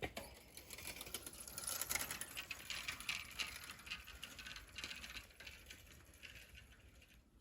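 Rapid, dense rustling and crackling of an animal moving and foraging close to the trail camera, loudest about two seconds in and dying away toward the end.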